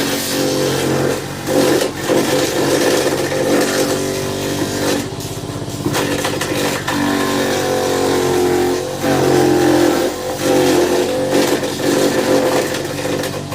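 Homemade fruit-cutting machine running steadily. Its motor hums with a whirring blade noise, the level rising and dipping repeatedly as fruit is fed through.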